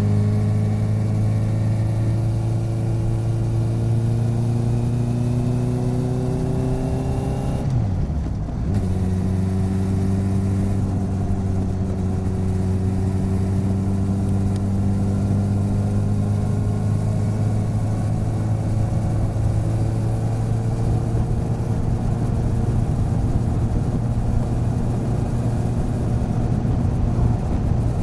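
Motorcycle engine running on the road, recorded from the side of the bike: the revs climb slowly, dip briefly about eight seconds in, then hold steady and slowly rise again.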